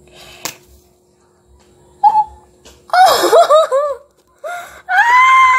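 A woman laughing in short, high bursts, then letting out one long, high cry near the end. A single sharp click comes about half a second in.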